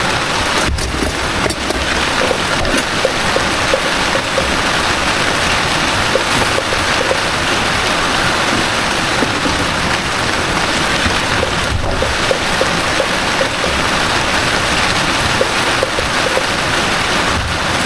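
Heavy rain falling steadily, a dense unbroken hiss of rain.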